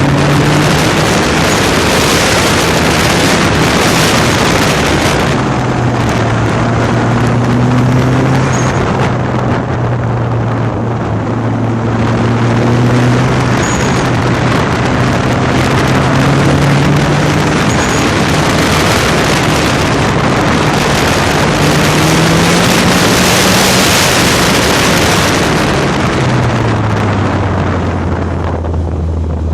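Nissan 240SX's SR20DET turbocharged four-cylinder engine, its note rising and falling again and again as it accelerates and lifts through an autocross course, under heavy wind noise on the microphone. Near the end the engine note drops and settles lower as the car slows.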